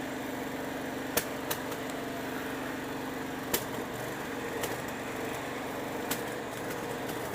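Garden tractor's small engine running steadily under way, with a few short sharp clicks or knocks scattered through it.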